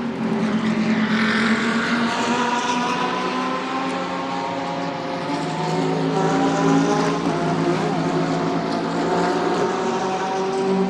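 GT3 race car engines running as cars leave the pit lane. Several engine notes overlap and slowly slide up and down in pitch.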